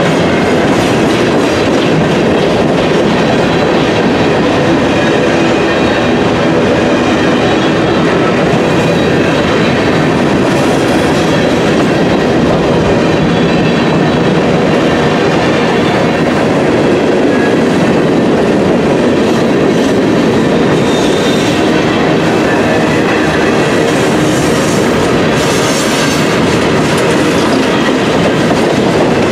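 Freight train of open-top gondola cars rolling past close by: a loud, steady rumble and clatter of steel wheels on the rails.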